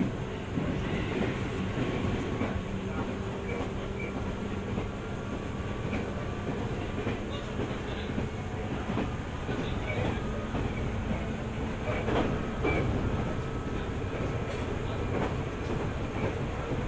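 205 series 600 subseries electric commuter train running along the line, heard from inside the car. A steady rumble of wheels on rail with a low hum, and a scattering of rail-joint clacks.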